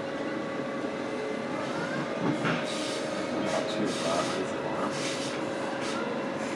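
Suburban electric train running between stations, heard from inside the carriage: a steady rumble of wheels on the rails with a constant whine, and a run of short rattles and knocks from about two seconds in.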